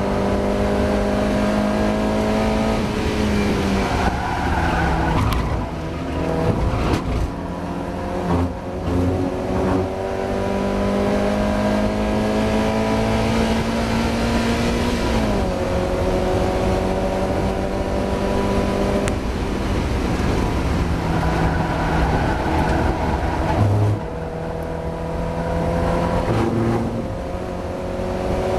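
Mazda MX-5 race car's four-cylinder engine running hard, its pitch climbing steadily under acceleration and dropping sharply at gear changes and braking several times, with a choppy stretch of downshifts and revs early on.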